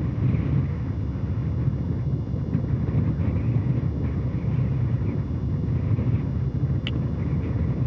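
Soyuz rocket's first-stage engines and strap-on boosters firing in powered ascent: a steady low rumble. A faint click comes near the end.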